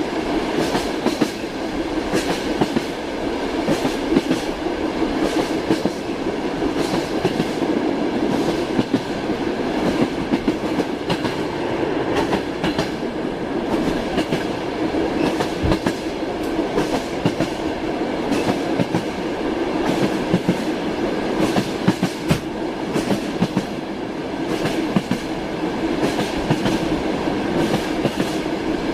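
Train wheels clicking over the rail joints as a moving train runs steadily, over a constant rumble with many short clicks.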